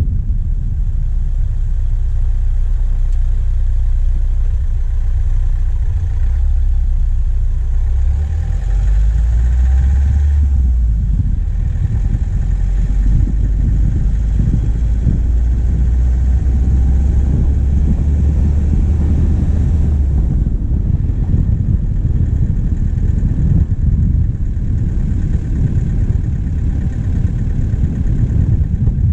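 Diesel engine of a vehicle driving on a forest track, heard from the bonnet: a steady low rumble that turns rougher and more uneven about two-thirds of the way through.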